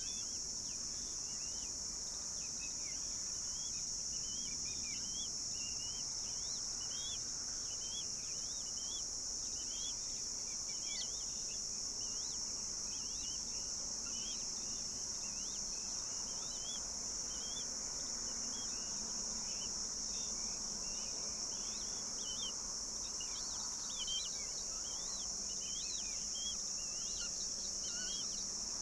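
A steady, high-pitched drone of insects such as crickets or cicadas, with many short, high bird chirps sounding through it, more of them near the end.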